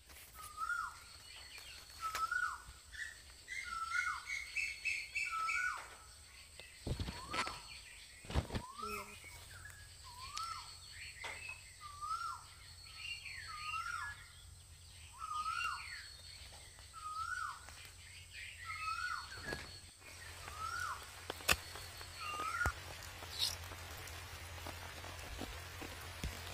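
A bird calling over and over, a short hooked note that rises and drops, about once a second, with a brief run of higher quick notes a few seconds in. A steady thin high tone sits behind it, and a few sharp knocks come about seven to nine seconds in.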